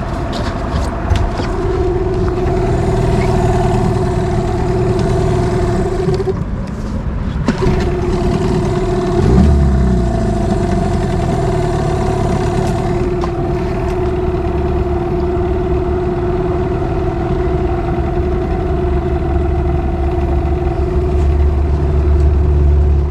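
Boat's outboard motor running steadily on a second-hand fuel-line primer bulb, fitted after the old one burst, and seemingly running alright. Its note dips briefly about six seconds in, and a deeper low rumble joins about nine seconds in and holds.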